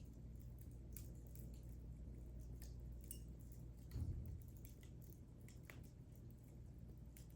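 Wood fire in a fireplace crackling faintly: scattered small pops and snaps over a low steady rumble, with a soft thump about four seconds in.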